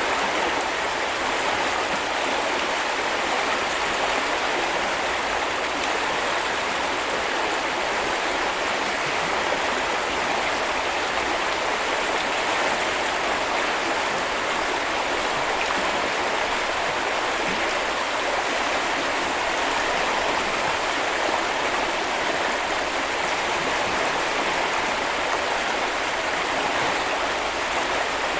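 Small river or brook flowing steadily: a constant rushing and babbling of water.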